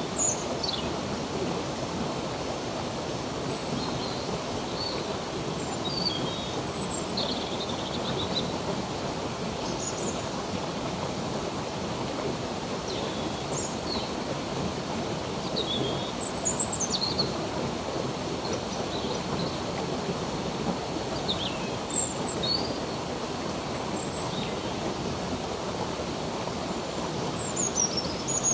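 Running water flowing steadily, with small birds chirping in short, high calls scattered throughout.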